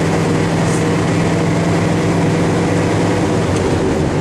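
Old farm truck's engine running while the truck is driven, heard from inside the cab as a steady drone; its note shifts a little past three seconds in.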